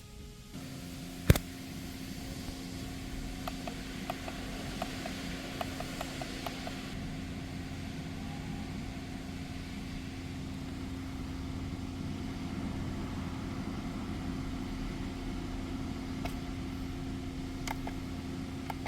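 Renault XM3's 1.3-litre turbo four-cylinder TCe260 engine coming on just after the start and running at a steady idle, with a single sharp click about a second in and a few lighter clicks a few seconds later.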